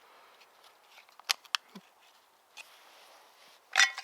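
A few sharp little clicks and light rustling from hands handling small objects, the loudest click near the end.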